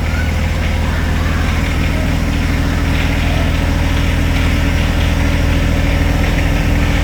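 John Deere 1025R compact tractor's three-cylinder diesel engine idling steadily, freshly started.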